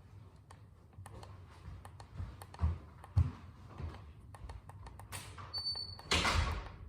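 Small clicks and a couple of dull knocks from tools being handled, then a single short high electronic beep about five and a half seconds in, as from a digital torque wrench being set. A brief rustling scrape follows near the end.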